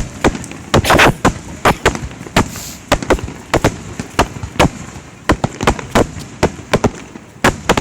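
Fireworks shells bursting in quick succession: a steady run of sharp bangs, about three a second, with a denser, louder burst about a second in.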